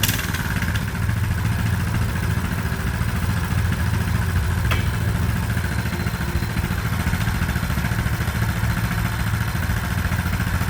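Coleman BT200X mini bike's small single-cylinder engine idling steadily.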